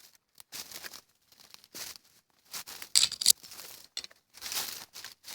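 Irregular crunching and rustling of dry leaves and brush underfoot, footsteps on a woodland trail, with a louder crunch about three seconds in.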